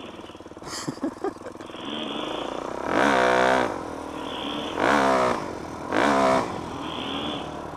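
Dirt bike's single-cylinder four-stroke engine revved hard three times: once about three seconds in, then twice more a little over a second apart, each rev rising and falling, with lower running between. These are the throttle bursts of a rider popping wheelies.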